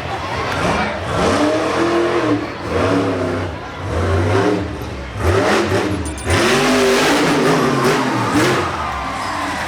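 Monster truck's 557-cubic-inch alcohol-fuelled engine revving hard, its pitch rising and falling again and again as the throttle is worked, with sudden louder surges about five and six seconds in.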